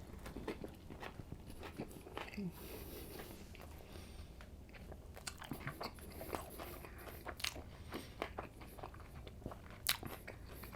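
A person biting into and chewing a chicken flatbread sandwich with lettuce, onions, spinach and banana peppers, a steady run of many small mouth clicks and crackles.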